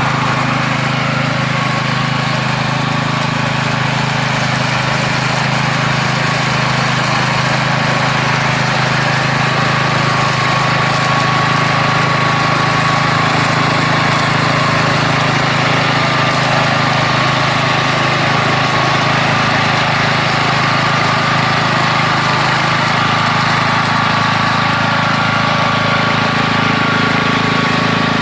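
Orchard weed mower with wire-cord cutting blades running steadily, engine and spinning cutter making an even drone with a high whine over it.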